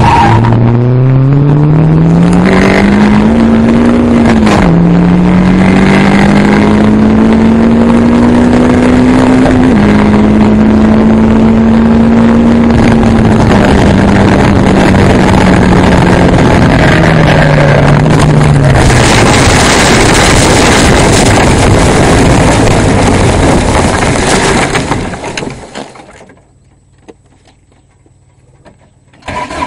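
Sylva Phoenix sports car engine heard from the open cockpit, accelerating hard in gear with two sudden drops in revs at upshifts, then winding down as the car slows. A loud rushing noise follows as the car runs off the track onto grass. The engine then cuts out, leaving near quiet for a few seconds before sound returns right at the end.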